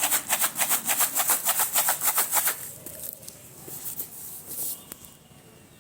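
A taped box holding folded aluminium foil pieces and caustic soda being shaken hard. It makes a quick, rhythmic rattling at about five strokes a second, which stops about two and a half seconds in, leaving faint handling rustles.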